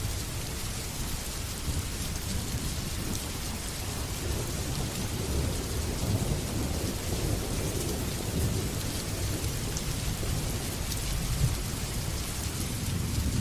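Steady rain hissing down, with a low rolling rumble of thunder that swells about four seconds in and keeps going.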